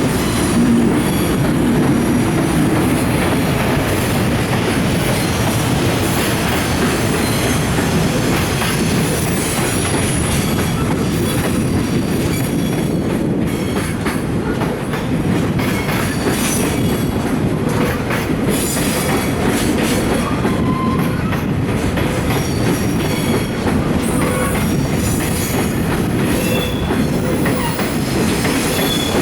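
Container freight train rolling slowly into a station, its wagons' wheels clicking over rail joints with scattered short, high-pitched wheel squeals. The sound is a steady, loud rumble throughout.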